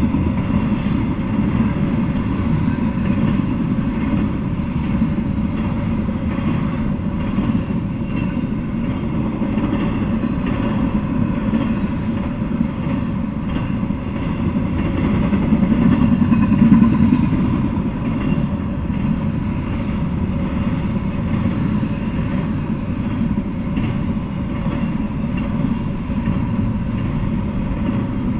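Double-stack intermodal freight train rolling past: a steady rumble and clatter of steel wheels on the rails, swelling briefly about two-thirds of the way through.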